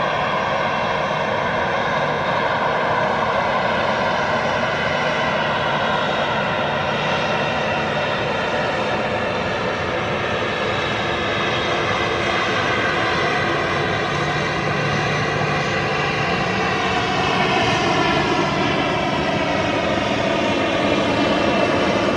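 Boeing 737-800's CFM56-7B turbofan jet engines running, a loud continuous jet noise with whining tones that slowly slide in pitch, growing a little louder about 17 seconds in.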